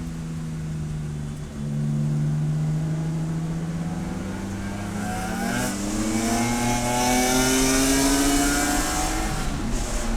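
Race car engine accelerating hard: the pitch steps down at a gear change about a second and a half in, then climbs steadily for about eight seconds, with rushing noise building over it, before the engine note drops away near the end as the throttle comes off.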